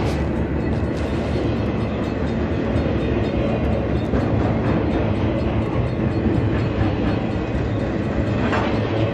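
Train running steadily: a continuous rumble of the wheels on the rails, with a few faint clicks.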